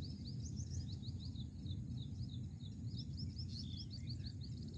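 A bird calls in a steady run of quick, high, repeated chirps, several a second, over a low steady outdoor rumble.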